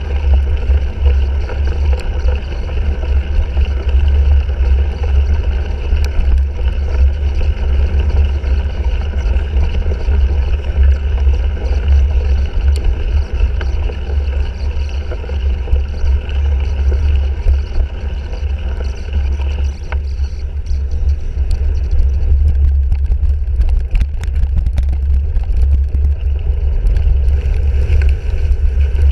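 Wind rumbling on a GoPro Hero 3's microphone while the cyclocross bike it is mounted on is ridden at race pace, mixed with steady tyre and drivetrain noise. Scattered clicks and rattles from the bike come more often in the last third.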